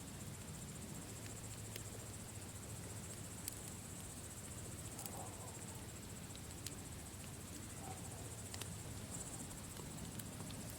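Campfire burning with a few sharp, scattered crackling pops, over a steady high cricket trill and a low, even rumble.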